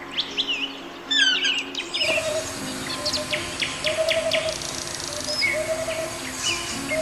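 Several small birds chirping and calling, quick high chirps and short sliding notes, over soft background music with held notes. About two seconds in the background shifts to a fuller outdoor hiss, with a short repeated lower call joining in.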